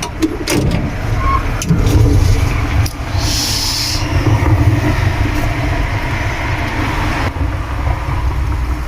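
A motor vehicle runs close by with a steady low rumble. A few sharp clicks come in the first three seconds, and a brief hiss follows a little after.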